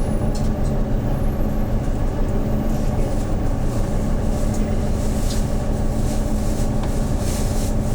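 Hyundai New Super Aero City CNG city bus engine running steadily, heard from inside the bus, as a low drone with a constant hum.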